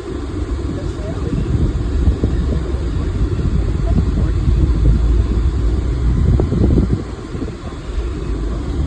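Low rumble of a river car ferry underway, mixed with wind buffeting. It swells for most of the middle and eases near the end.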